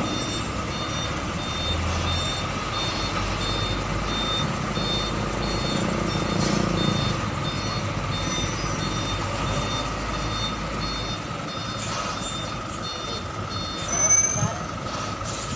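Truck's reversing alarm beeping over and over above the rumble of its running engine as it backs up. A brief louder burst comes about fourteen seconds in.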